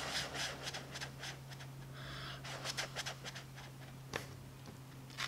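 Close-up mouth sounds of chewing chili cheese fries: a quick run of wet clicks and smacks, one sharper click about four seconds in. A steady low hum runs underneath.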